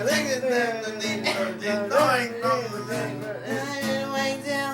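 Acoustic guitar strumming chords under a voice singing a long, wavering melodic line without clear words.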